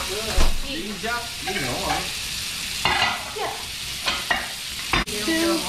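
Tuna steaks searing in olive oil and butter in a frying pan, a steady sizzle. Two sharp knocks stand out, one right at the start and one about five seconds in.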